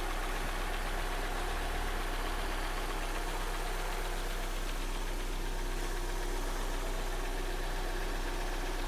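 Rebuilt Kia G4NA 2.0-litre four-cylinder petrol engine idling steadily while warming up on its first run on flushing oil after the rebuild.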